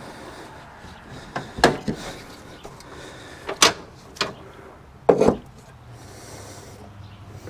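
A few separate knocks and clunks of things being handled and set down, the loudest pair about five seconds in.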